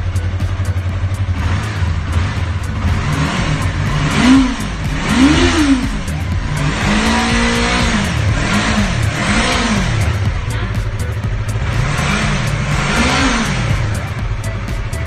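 Yamaha YZF-R3's parallel-twin engine idling and being blipped, with about seven quick revs that rise and fall back to idle, one held slightly longer, in three bunches.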